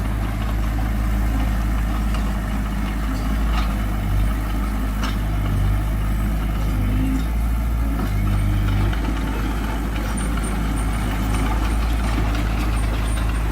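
Heavy diesel engine of earthmoving equipment running steadily at a low idle-like pace, with a few faint clicks over it.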